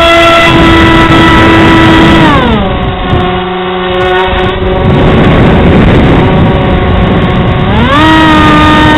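Electric motor and propeller of an Easystar RC foam plane whining steadily, dropping in pitch as the throttle comes back about two seconds in and rising again near the end, over a rush of wind.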